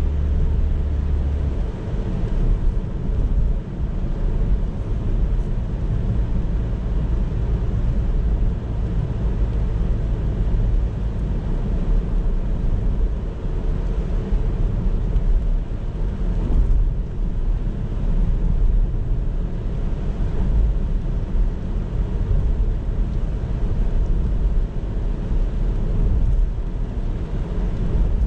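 Car driving along a road: a steady low rumble of tyre and engine noise. A deeper steady hum drops out about a second and a half in.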